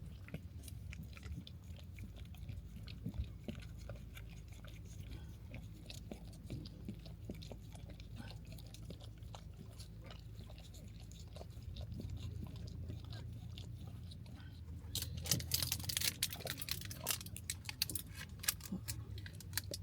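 Crunchy food being chewed: scattered bites, then a run of loud crunching about fifteen seconds in that lasts a few seconds.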